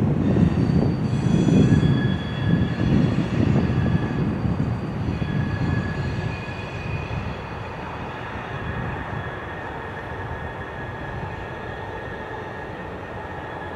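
Freight train's last cars rolling away on a curve, a low rumble of wheels on the rails fading steadily, with thin steady squeals from the wheels on the curve.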